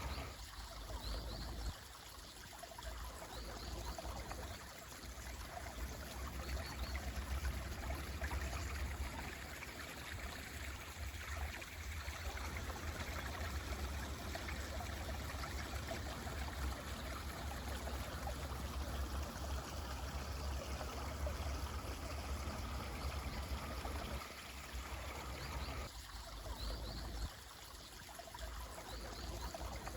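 Mountain stream running steadily, with a few faint, brief bird chirps about a second in, around seven seconds and near the end.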